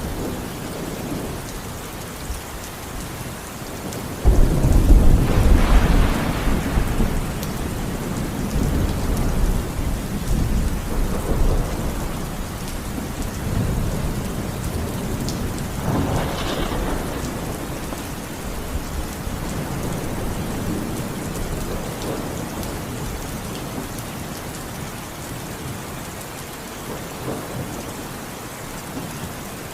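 Steady rain falling, with a sudden loud clap of thunder about four seconds in that rumbles on for several seconds. A shorter peal of thunder follows about sixteen seconds in.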